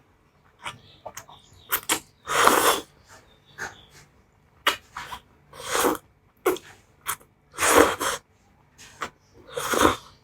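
Spicy instant noodles being slurped in four long, loud slurps, with short wet clicks of chewing and mouth smacks between them.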